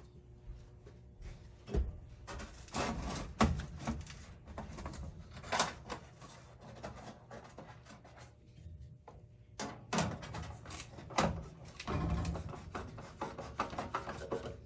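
Irregular knocks, scrapes and rubbing from hand work on metal flue pipe, with several sharp knocks spread through.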